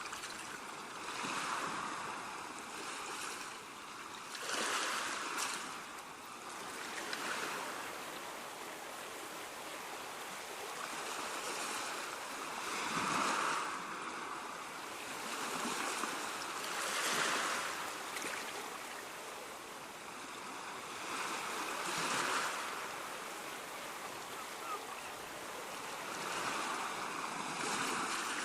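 Ocean waves washing onto a beach: a steady hiss of surf that swells and eases every few seconds as each wave breaks and runs up the shore.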